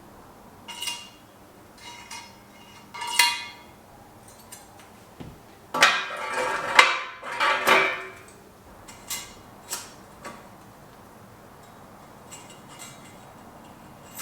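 Small metal parts and tools clinking and clattering as they are handled: two ringing clinks, then a longer jangling clatter about six seconds in, then a few light clicks.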